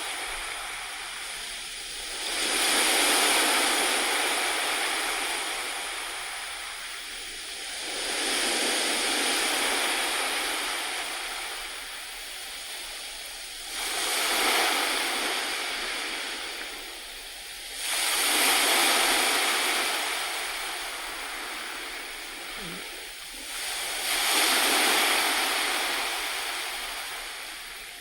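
Sea waves washing onto a shore: five swells of surf, each rising quickly and then fading away slowly over several seconds.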